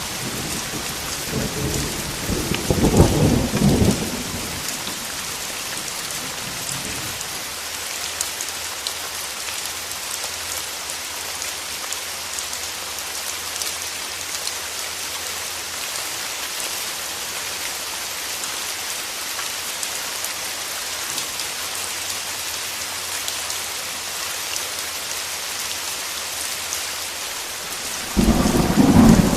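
Steady rain falling, a constant even hiss, with a roll of thunder rumbling from about a second and a half in to four seconds in, and another starting just before the end.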